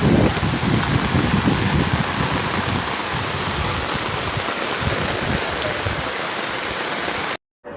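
Heavy rain pouring down onto flooded streets, a steady dense hiss with uneven low rumbling through the first few seconds. It cuts off abruptly near the end.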